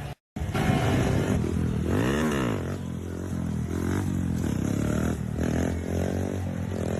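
Motorcycle engine running and revving, with a quick rise-and-fall in pitch about two seconds in and further shifts in engine pitch after. The sound cuts out for a moment just after the start.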